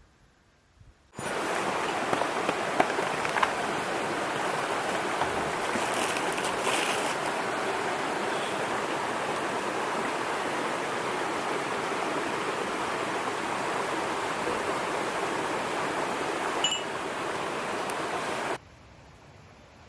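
Steady rushing of water that starts abruptly about a second in and cuts off abruptly near the end, with a few faint ticks over it.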